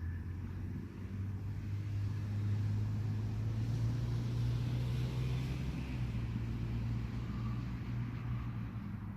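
A distant engine droning as it passes, growing louder to a peak about halfway through and then slowly fading.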